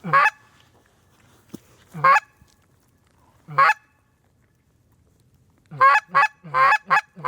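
Loud goose honks: three single honks a second or two apart, then a quick run of five or six honks near the end.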